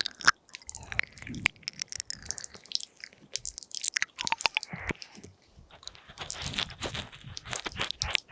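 Close-miked ASMR mouth sounds into a binaural microphone: wet, sticky clicks and smacks of tongue and lips in quick, irregular runs, with a short lull about five seconds in.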